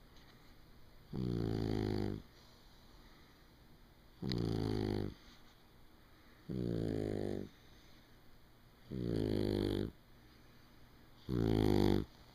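Shar-Pei dog snoring in its sleep, pig-like: five snores, each about a second long, evenly spaced about every two and a half seconds with quiet breaths in between.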